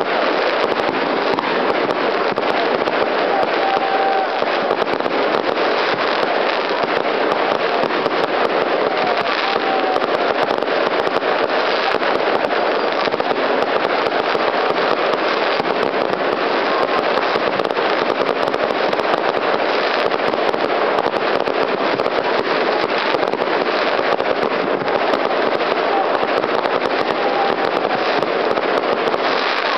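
Fireworks display going off continuously: a dense, steady crackle of many small pops and bursts with no pauses.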